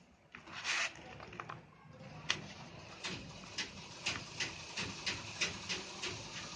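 Dried red sand shapes being crushed and crumbled: a short crumbling rush about half a second in, then a quick run of crisp crunches, two to three a second.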